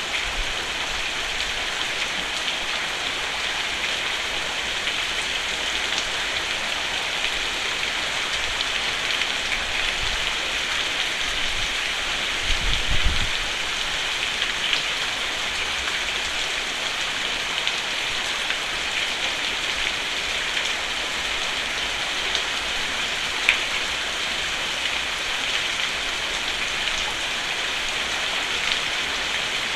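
Steady rain falling on a roof, an even patter with a brief low rumble about twelve seconds in and a sharp drip-like tick later on.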